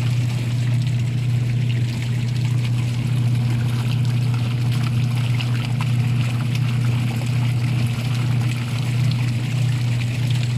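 Washing machine running a wash cycle: a steady motor hum with water and clothes churning in the tub.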